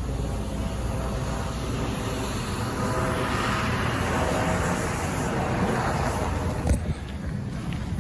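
A motor vehicle passing close by: engine and tyre noise swells up over a few seconds and fades away, with a sharp click and an abrupt change in the background about seven seconds in.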